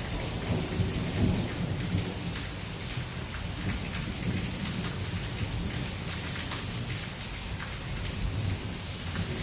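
Heavy rain falling steadily, with scattered drops ticking close by. A low rumble of thunder swells just after the start, is strongest over the first two seconds or so, and then fades under the rain.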